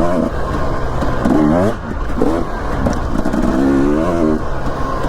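Dirt bike engine revving up and falling back several times as the bike rides along a trail, heard through a helmet-mounted action camera's microphone, with a steady low rumble underneath.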